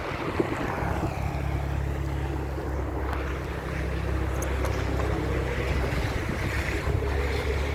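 Wind buffeting the microphone during a snowstorm: a steady low rumble over a hiss of wind, setting in a little under a second in.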